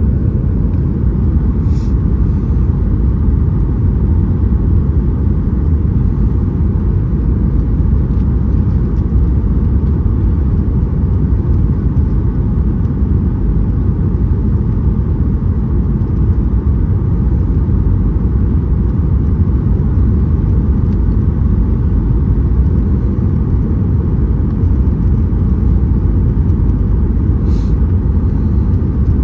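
Steady low rumble of airflow and engines inside the cabin of a Boeing 737-800 airliner, even in loudness throughout, with two faint clicks, one about two seconds in and one near the end.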